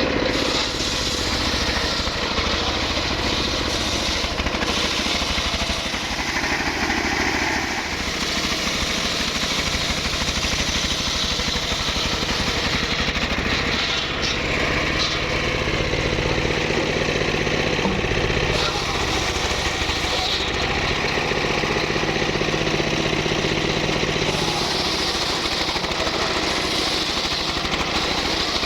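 Engine-driven wood saw running steadily while cutting mahogany, its engine note shifting in stretches as the load changes.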